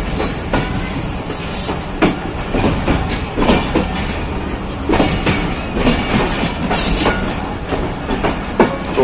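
Passenger train coaches rolling out of a station, heard from an open carriage doorway: a steady rumble of wheels on rails with irregular clicks and clatter as the wheels cross rail joints.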